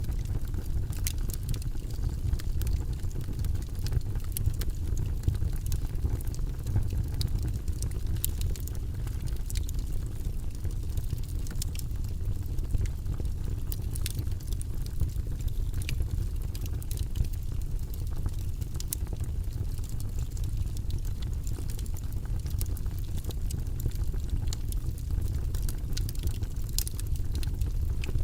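Wood logs burning in a fireplace: a steady low rumble of the flames with frequent sharp crackles and pops.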